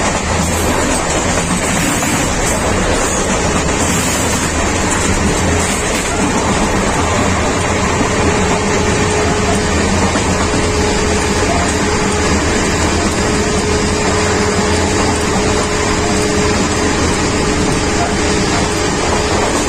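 Passenger train coaches running, a steady loud rumble of wheels on track heard close to the coupling between two coaches. A faint steady tone joins the rumble about eight seconds in.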